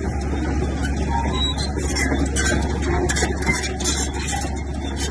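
Komatsu bulldozer's diesel engine running steadily, with irregular clatter over its low hum.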